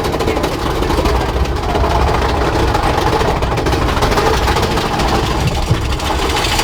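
Big Thunder Mountain Railroad mine-train roller coaster running along its track, a loud steady low running noise.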